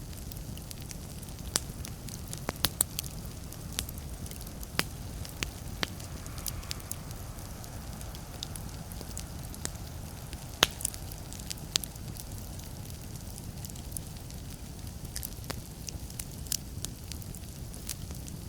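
Wood fire crackling in a fireplace: irregular sharp pops and snaps over a steady low rumble, with the loudest pop about ten seconds in.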